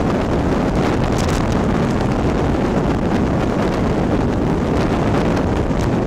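Wind rushing over the microphone of a moving motorcycle: a steady, loud rush with the ride's road and engine noise underneath.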